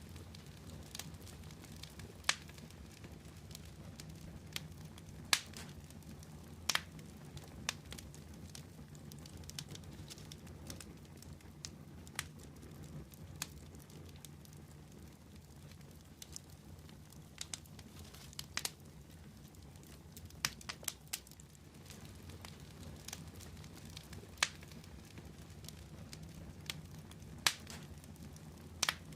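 Fire crackling: sharp pops at irregular intervals, a few every couple of seconds, over a steady low rumble of the flames.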